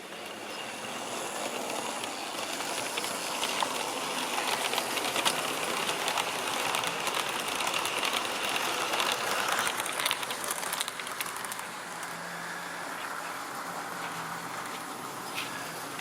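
Model railway train running on the track: the motor and wheels give a steady whirring rattle with fine clicks over the rail joints. It grows louder as the train comes near, then drops back after about eleven seconds as it moves away.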